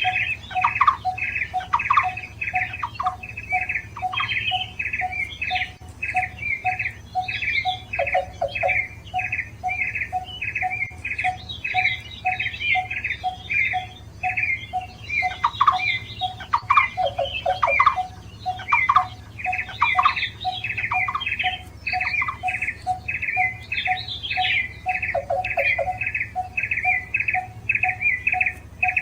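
Barbets calling: a fast run of short, repeated high notes over a lower note repeated steadily about twice a second, several birds overlapping.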